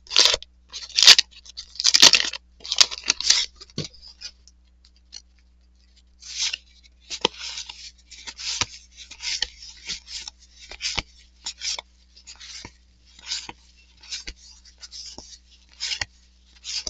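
Trading cards being slid off a stack one after another, each card a short papery rasp, about two a second after a brief pause. A cluster of louder rustling scrapes comes in the first few seconds.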